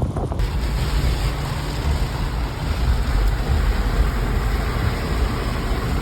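Strong wind gusting over the microphone, a loud steady rush with a heavy low rumble that rises and falls.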